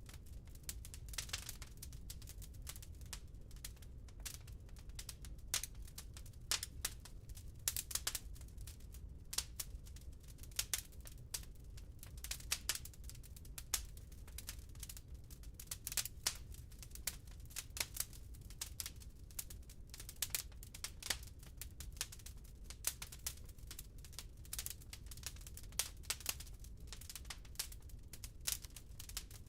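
Burning firewood crackling and popping in a fireplace: irregular sharp snaps over a low steady rumble of the fire.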